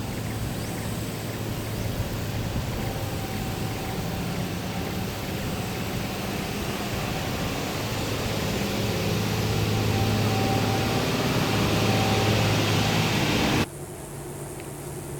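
An engine running steadily, with a low hum under a broad rushing noise, growing louder, then cut off suddenly near the end.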